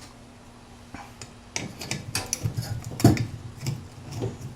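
Metal tools and parts clinking and knocking in an irregular run, starting about a second and a half in and loudest about three seconds in, as the engine's oil lines and fittings are taken off.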